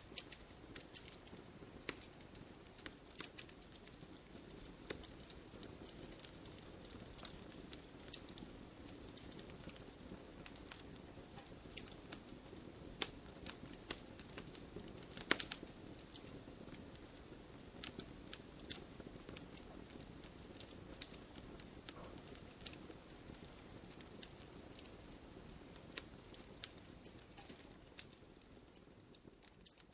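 Campfire burning: a steady low hiss of flames with frequent irregular crackles and sharp pops from the burning wood, one louder pop about midway.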